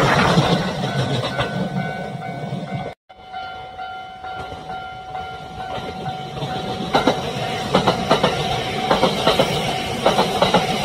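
Train running on the track with a steady rumble and a steady high tone, and wheels clattering over rail joints from about halfway on, growing louder toward the end. The sound cuts out briefly about three seconds in.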